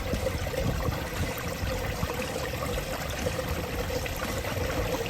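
Water running steadily down a pondless waterfall stream, its pump now at full flow after the closed valve was opened all the way.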